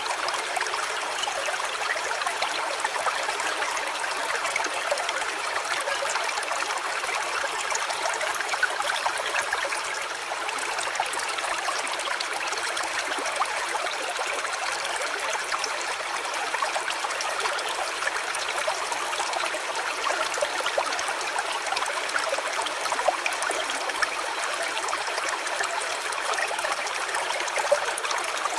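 Small stream trickling and splashing steadily, a dense even babble without any deep rumble.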